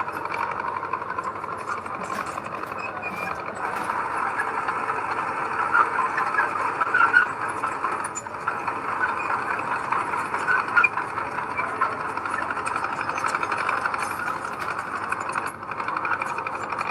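Heavy earthmoving machinery running steadily with its diesel engine, with scattered short clanks.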